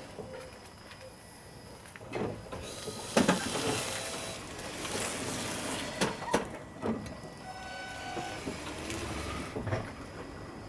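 Toyota Yaris running, heard from inside the car as a steady low rumble with a few scattered knocks and clicks, the loudest about three seconds in, after its front brake pads were refitted to stop a banging noise.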